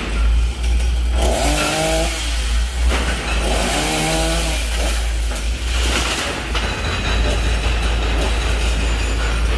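Two-stroke chainsaw revved up twice, each burst lasting under two seconds with its pitch bending, over a steady low rumble.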